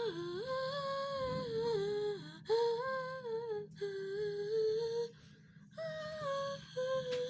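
A high-pitched voice humming a tune in several held phrases, the notes stepping up and down, with short breaks between them, over a low steady background hum.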